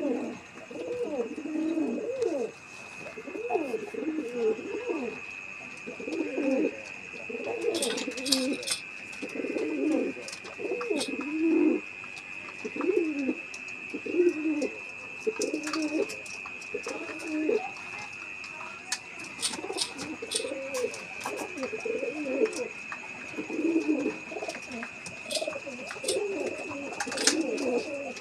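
Pigeons cooing over and over, a low rising-and-falling coo roughly every second, with a steady high-pitched tone behind and a few sharp clicks.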